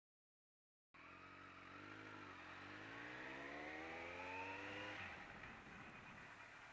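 Motorcycle engine, a Kawasaki Concours 14, accelerating. Its pitch climbs steadily for about four seconds, then falls away, leaving steady road and wind rumble.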